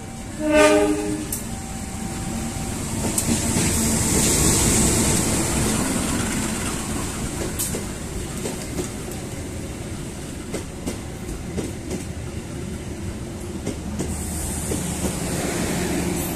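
A diesel locomotive sounds one short horn blast about half a second in, then rumbles past at close range, loudest around four to five seconds in. Passenger coaches follow, their wheels clacking steadily over the rail joints.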